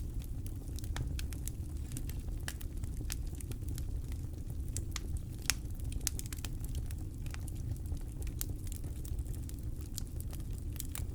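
Campfire burning with irregular sharp crackles and pops over a steady low rumble, one louder pop about halfway through.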